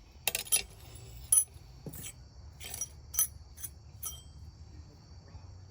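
Hand hammer striking a small piece of hot spring steel on an anvil, drawing out a knife's tang. About eight sharp, ringing metallic blows come at an uneven pace.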